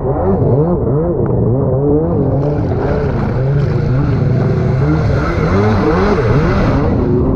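Stand-up jet ski engine revving up and down over and over. A rushing hiss joins in a couple of seconds in and stops near the end.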